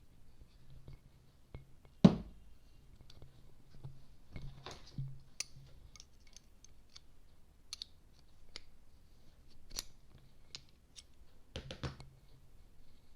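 Metal parts of a diesel fuel injection pump clicking and knocking as they are handled and fitted during reassembly, with one sharper knock about two seconds in and a quick run of clicks near the end.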